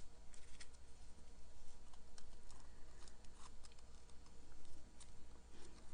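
Irregular light clicks and taps from hands handling small paper-craft supplies on a work table, over a faint steady hum.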